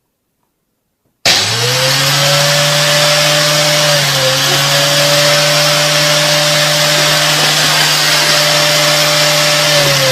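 An electric motor appliance switches on suddenly about a second in and runs loud and steady with a high whine over a rushing noise. Just before the end it is switched off and its whine falls in pitch as it spins down.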